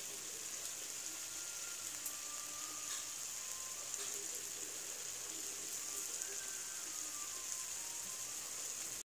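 Chicken pieces in masala frying in oil in a steel kadhai: a steady sizzling hiss with a few scattered crackles, cutting off abruptly near the end.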